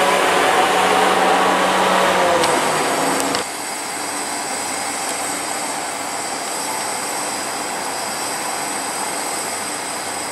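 A South Western Railway Class 444 Desiro electric multiple unit moving slowly through the station platform: steady train running noise with a thin high whine. Before a sudden cut about three seconds in there is louder noise with steady tones.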